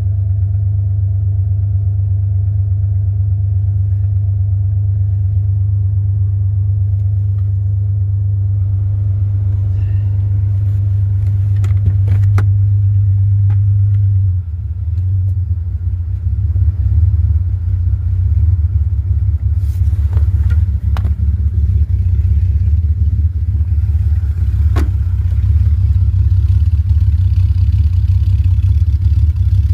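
A 2001 Jeep Grand Cherokee's 4.0-litre inline-six idling cold just after a start well below freezing. About halfway through, the steady hum changes to a coarser, pulsing exhaust rumble.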